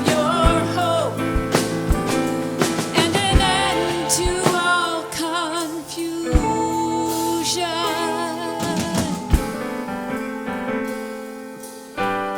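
Live band playing a gospel-rock song: drum kit hits under sustained keyboard chords and singing with heavy vibrato, without clear words. About nine seconds in the drums stop and held chords fade, then a new keyboard phrase starts near the end.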